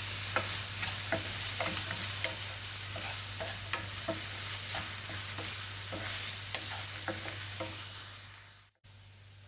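Chopped onion, ginger and green chilli sizzling in a little oil in a pan, with a spatula stirring and clicking against the pan. The sizzle fades away shortly before the end.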